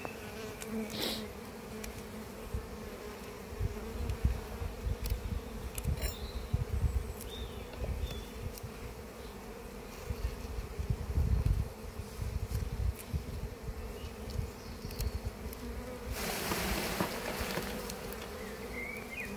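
Honey bees buzzing in a steady hum around an opened hive. A spell of hissing noise comes about sixteen seconds in.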